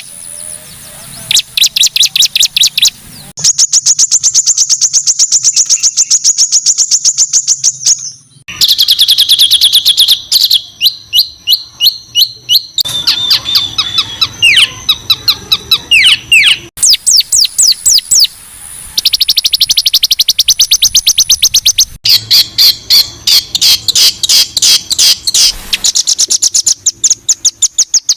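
Songbirds in a competition song-tutor recording, giving harsh, high-pitched rapid-fire 'shot' phrases of fast, evenly repeated notes. The pattern switches abruptly every few seconds from one rapid trill to another, with a few brief breaks.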